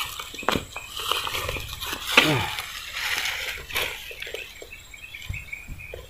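Outdoor swamp ambience of small birds chirping over and over, with scattered clicks and a brief loud falling call about two seconds in.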